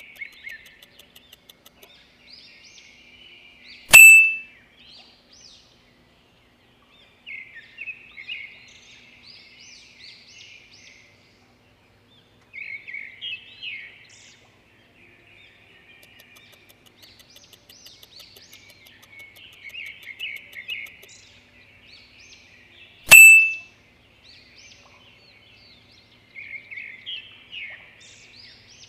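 Birds chirping and trilling in short, scattered bursts. Two loud sharp clicks, each with a brief ringing ping, cut in, one a few seconds in and another about twenty seconds later.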